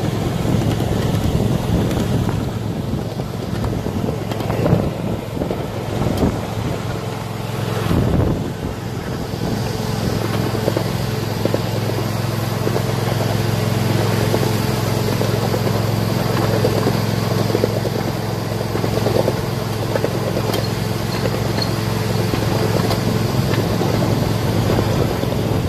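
Ride aboard a 1/8-scale, 7½-inch gauge miniature train under way: the locomotive's steady hum with the rumble of wheels on the track, and scattered knocks in the first several seconds.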